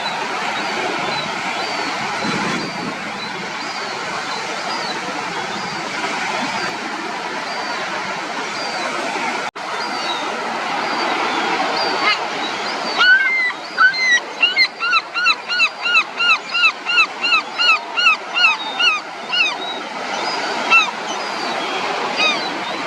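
Surf washing steadily on the beach, with faint, high, short peeps repeating throughout, the begging calls of a gull chick. About twelve seconds in, an adult gull breaks into a loud run of rapid calls, about three a second for some seven seconds, with one more call near the end.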